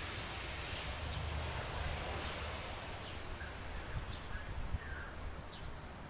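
Birds giving several short, high, falling chirps over a steady low rumble and hiss, with a soft low bump a little before the end.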